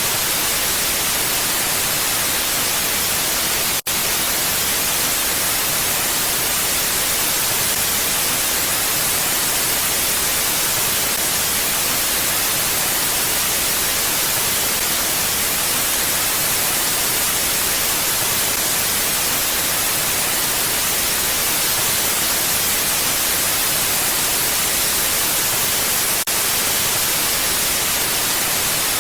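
Steady, even hiss of mountain wind with no gusting. It dips out for a split second about four seconds in.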